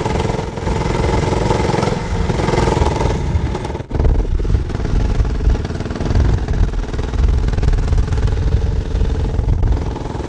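Mini motorcycle's small engine running steadily as it is ridden, with heavy wind rumble on the microphone. The sound drops out briefly about four seconds in.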